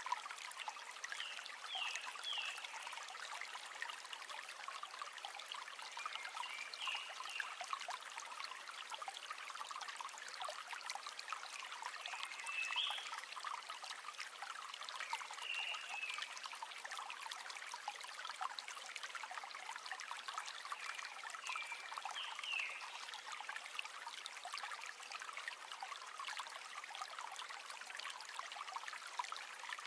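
River water babbling and trickling steadily, a light splashy rush with no deep rumble. A bird gives short high chirps every few seconds.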